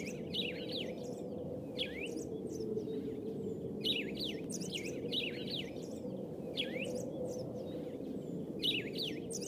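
Birds chirping: clusters of short, high, downward-sweeping notes every second or two, over a steady low background hum.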